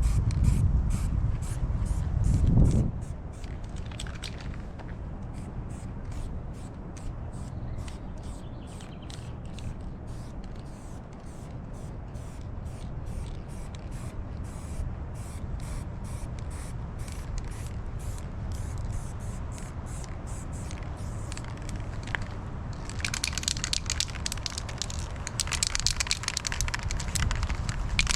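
Aerosol spray-paint can being shaken, its mixing ball clicking quickly and steadily, then hissing as paint is sprayed over the last five seconds. A low rumble opens the first few seconds.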